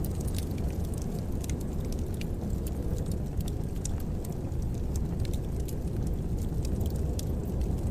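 Wood fire burning in a fireplace: a steady low rumble with frequent small, irregular crackles and pops.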